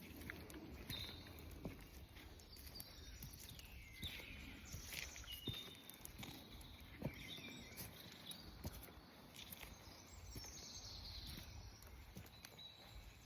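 Several songbirds singing faintly, with short chirps and trills overlapping throughout, and a few soft clicks now and then.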